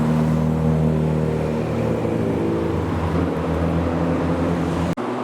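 A car engine running at steady revs, its note held with little change. It cuts off abruptly near the end, and another engine starts to rev up.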